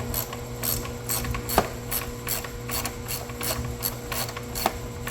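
Steady, rapid mechanical clicking, about four clicks a second, over a constant hum.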